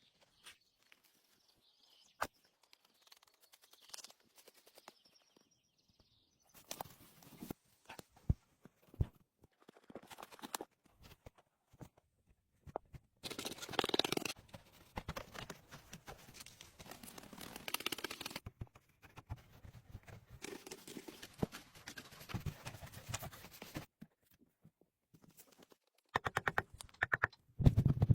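Scattered sharp knocks and clicks, with longer stretches of rustling and scraping in the middle and a burst of loud knocks near the end: hands-on work noises.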